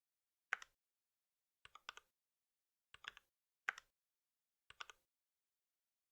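Computer keyboard keys pressed one at a time: five short click clusters about a second apart, some a quick double click, with silence between.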